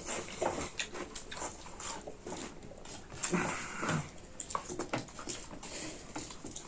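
Mouth sounds of eating: chewing and lip smacking, a run of short wet clicks, with two brief low vocal sounds about three and four seconds in.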